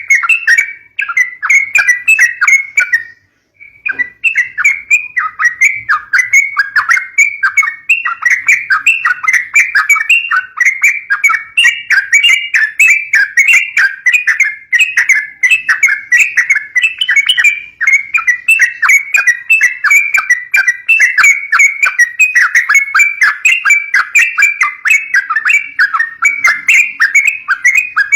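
Yellow-vented bulbuls (trucukan) chattering in a rapid, unbroken stream of short chirps, with a brief pause about three seconds in. These are the bulbul's fighting calls, played to lure young birds.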